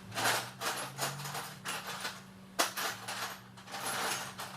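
Metal tools and parts clinking and scraping during engine work, with one sharp metallic knock about two and a half seconds in, over a steady low hum.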